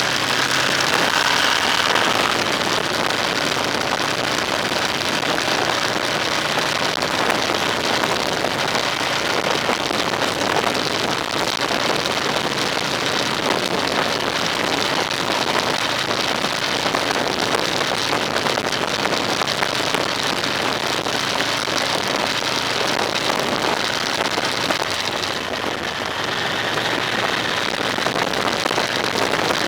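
Steady road and wind noise from a moving vehicle, an even hiss throughout, with engine tones faintly audible near the start.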